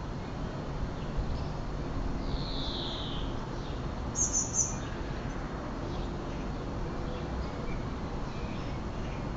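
Small birds calling over a steady low background rumble: one drawn-out high call about two seconds in, then a quick run of very high chirps about four seconds in.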